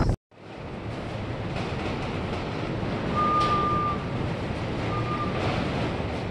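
Steady rushing outdoor noise with a short, thin high tone about three seconds in and a shorter one about five seconds in.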